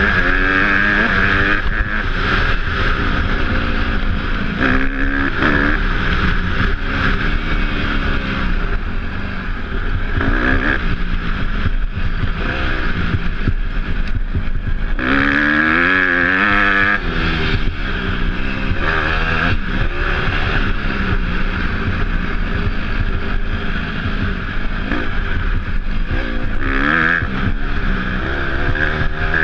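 Off-road motorcycle engine being ridden, revving up and down over and over as the throttle opens and closes, with a strong rise and fall about halfway through.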